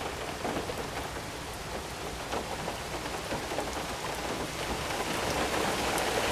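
Heavy hurricane rain falling and pattering on surfaces as a steady hiss of many small drop ticks, growing a little louder after about five seconds.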